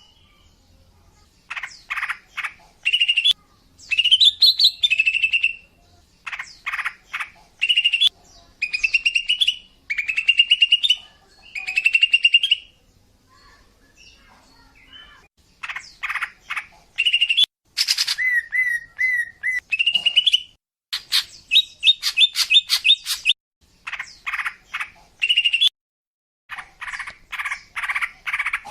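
Female green leafbird (cucak ijo) calling: short phrases of rapid chattering notes and slurred chirps, with brief pauses between them, and a run of four repeated lower notes a little past halfway. This is the female call used to lure males.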